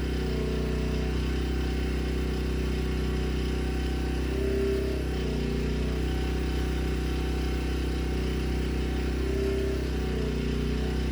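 Predator portable generator's single-cylinder engine running steadily, its note swelling briefly twice.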